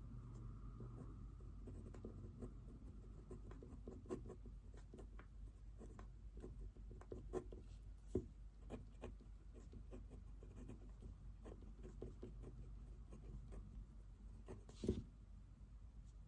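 Pen writing on paper at a desk: a faint, irregular run of small scratching strokes and light taps, with a sharper knock about fifteen seconds in.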